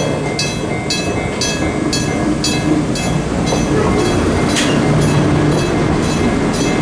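An Enoden electric train running with a steady rumble, while a railway level-crossing warning bell rings about twice a second and fades out a little over halfway through.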